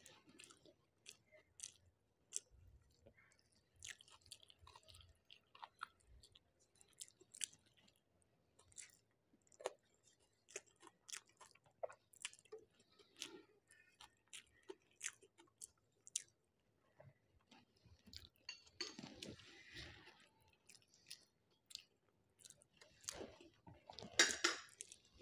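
Faint close-up chewing of a person eating rice and fish: scattered short clicks and crunches, with a louder, busier stretch about nineteen seconds in and again near the end.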